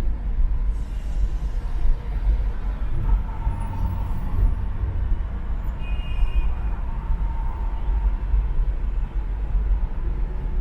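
Car driving on an expressway in traffic: a steady low rumble of engine and tyre noise, with a short high-pitched squeal about six seconds in.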